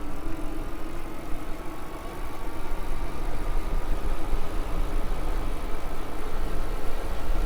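Riding noise from a moving e-bike: heavy wind rumble on the microphone, with faint steady whining tones from the bike's electric motor that drift slightly in pitch.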